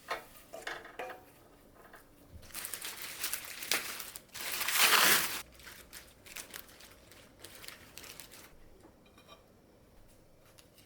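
Kitchen preparation handling sounds: crinkling and rustling with small clicks, and one louder, longer rush of noise about four to five seconds in.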